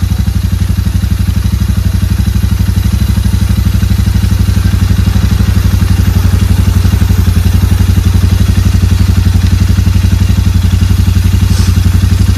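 Motorcycle engine idling, a steady, rapid, even beat of low pulses. A short hiss sounds once near the end.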